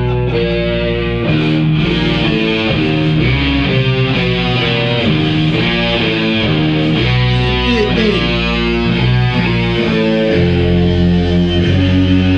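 Electric guitar, heavy-metal style, playing a run of changing notes over a low bass line, then holding a long chord near the end.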